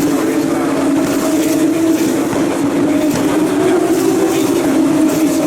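Formula 2 car's turbocharged V6 engine running at high revs with a steady drone that wavers only slightly in pitch.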